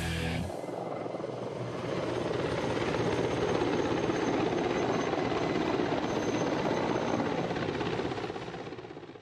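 Helicopter running, a steady dense rotor and engine noise with a fast flutter, fading out near the end.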